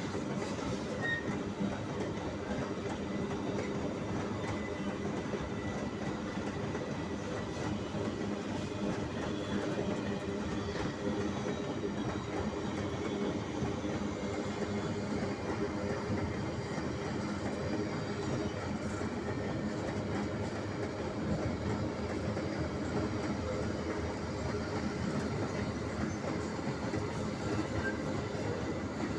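Empty iron-ore freight train rolling steadily past, its wagons' wheels rumbling and clattering on the rails.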